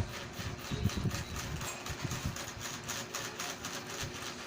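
Close-up chewing and mouth smacking while eating cooked chicken feet: a quick, irregular run of small clicks and smacks over a faint steady hum.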